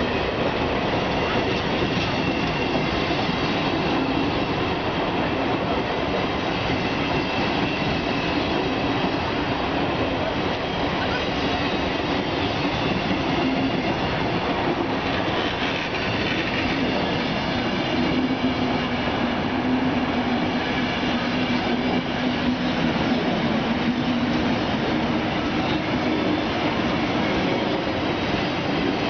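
Train running on the rails: a steady, even rail noise with faint held tones over it.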